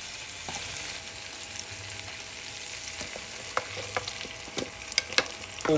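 Chicken and spices sizzling as they fry in a pan. From about halfway through, a utensil clicks and scrapes against the pan as the mixture is stirred.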